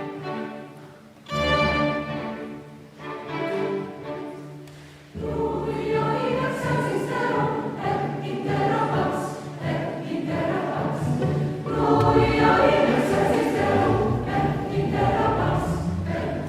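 Mixed choir singing with chamber orchestra in a Mass setting. Short phrases with pauses give way, about five seconds in, to a full continuous passage that grows louder later on.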